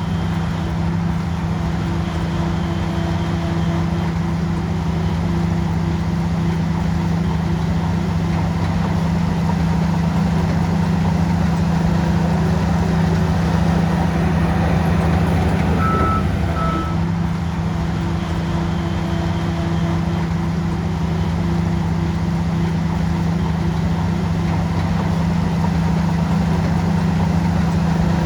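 Shantui bulldozer's diesel engine running steadily, with two short high beeps about halfway through.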